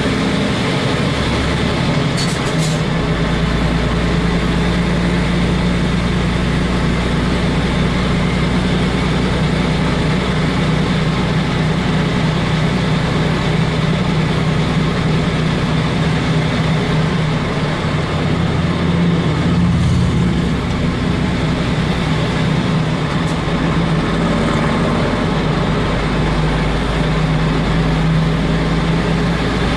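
Truck diesel engine running steadily while the truck drives, heard from the cab together with road noise.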